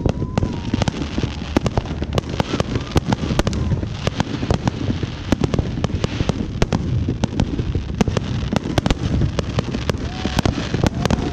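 Many fireworks going off at once, a dense, continuous barrage of sharp bangs and crackles over a low rumble, with no pause.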